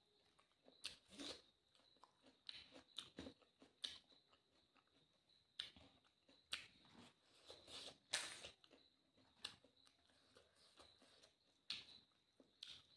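Close-miked eating sounds of a person chewing rice and chicken eaten by hand: soft, irregular wet smacks and crunchy clicks every second or so. A faint steady high-pitched whine runs underneath.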